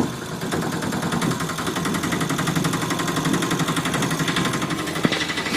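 The DIY mini tractor's engine sound running steadily with a fast, even rattle, with one brief click near the end.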